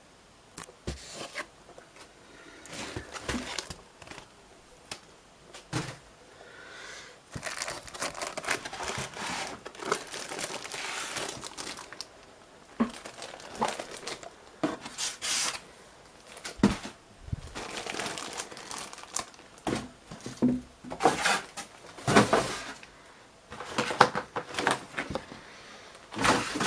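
Plastic and paper packaging crinkling and rustling, with some tearing and sharp handling clicks, as a boxed computer part is unpacked by hand. The sounds come in irregular bursts.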